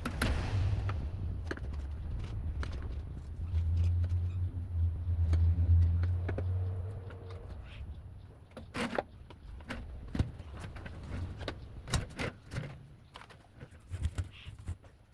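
Clicks, knocks and rattles of equipment being handled and set in place, over a low rumble that fills the first half and fades out; the sharp knocks come scattered through the second half.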